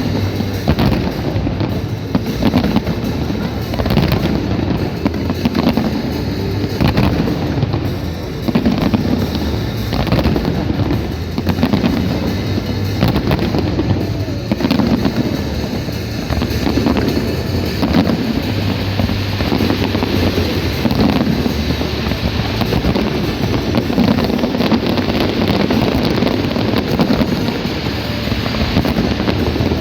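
Fireworks going off in a dense display: many sharp bangs and crackles in quick, irregular succession over a continuous low rumble, with music playing underneath.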